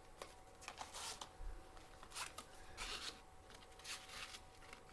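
Faint rustling and light clicks of letter pieces being handled and moved, about half a dozen short handling sounds in a row.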